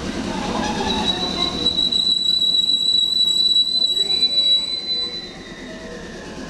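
JR West 223 series 2000-bantai electric train braking to a stop at a platform. A steady high-pitched squeal starts about a second in and fades out about five seconds in as the train halts, and a lower whine falls in pitch near the end.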